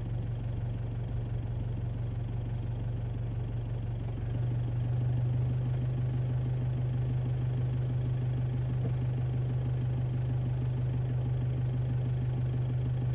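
Vehicle engine idling with a steady low hum, which rises slightly in pitch and level about four seconds in and then holds.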